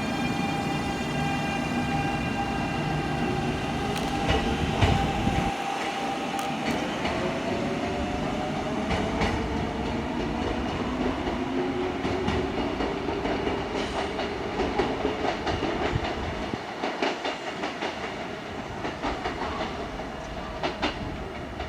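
Kintetsu electric train running through the station: motor whine with several steady tones, the tones gliding in pitch in the middle, and wheels clacking over rail joints in quick runs during the second half. The sound eases off near the end.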